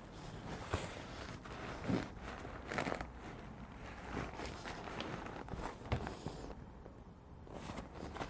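A packed tent in its stuff sack being pushed into a motorcycle side case: rustling fabric with scattered knocks and a few louder thumps against the case.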